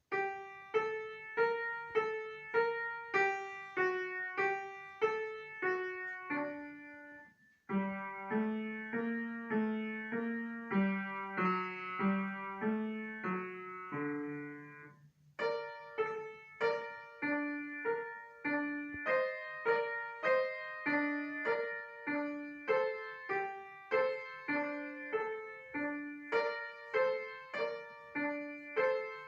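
Solo piano playing a simple, evenly rhythmic piece in short phrases, at a student's level. The playing breaks off briefly about 7 and 15 seconds in, and the middle phrase sits lower.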